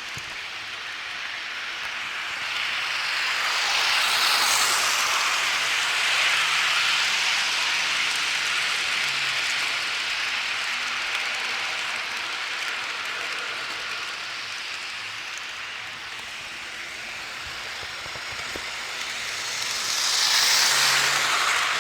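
HO scale model train running along the track, a steady rolling noise of wheels on rails. It grows louder as the train passes close about four seconds in and again near the end.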